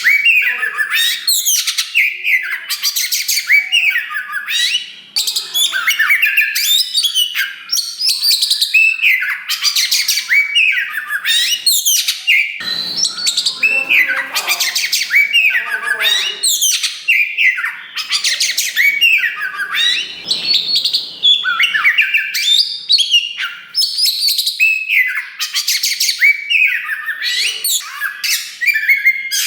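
Black-form Oriental magpie-robin (kacer wulung) singing loudly and without pause: a fast, varied run of rising and falling whistles and chirps, with a couple of harsher, rasping phrases mixed in.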